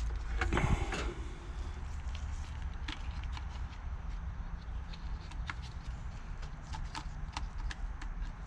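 Scattered light clicks and taps of a gasket and engine parts being handled and set on the KFX400's crankcase, with a short rustle in the first second, over a steady low hum.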